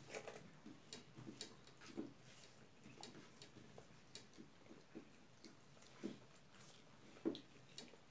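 Faint mouth sounds of eating by hand: chewing and lip smacks, heard as a string of short, irregular soft clicks.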